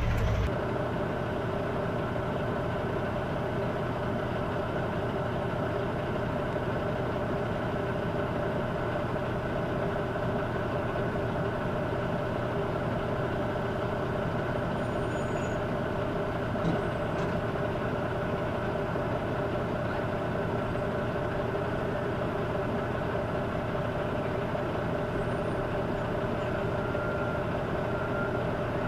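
Semi-truck diesel engine running steadily, with an even hum that holds the same pitch throughout.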